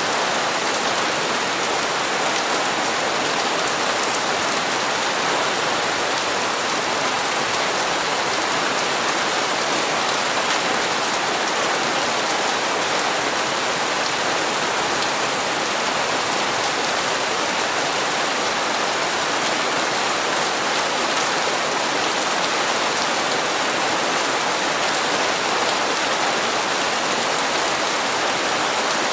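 Steady rain falling, an even hiss of drops hitting hard surfaces with no let-up.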